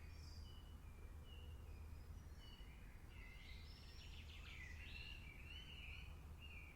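Faint rainforest ambience: several birds calling with short chirps and whistles, busiest a few seconds in, over a low steady rumble.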